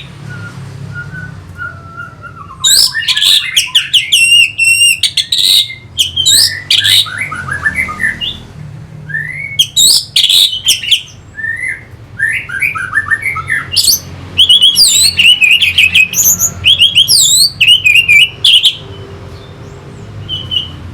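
Orange-headed thrush singing a loud, varied song of quick whistled and trilled phrases in bursts with short pauses.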